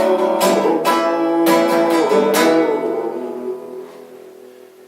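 Acoustic guitar strumming a few chords, about six strokes in the first two and a half seconds. The last chord then rings on and fades away.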